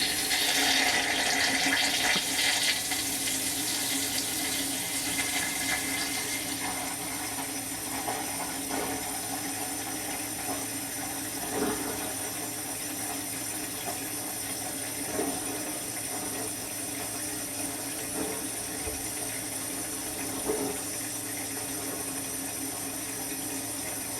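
Dishwasher running its wash cycle, heard from inside the machine through a sealed plastic bag: water spraying and splashing steadily, a little louder in the first few seconds, with three brief soft knocks later on.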